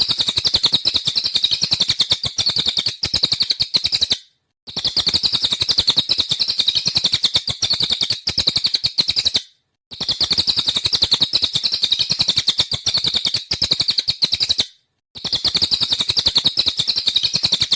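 A cililin (jalilin) bird singing in rapid-fire 'nembak' style: a dense, fast run of high chattering notes, in stretches of about five seconds broken by short silences.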